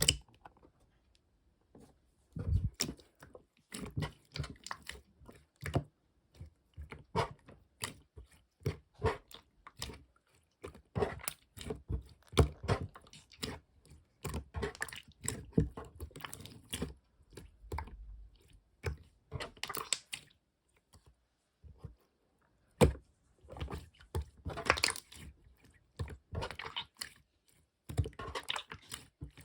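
Hands squishing, pressing and stretching slime, making irregular sticky pops and crackles in quick clusters with short pauses.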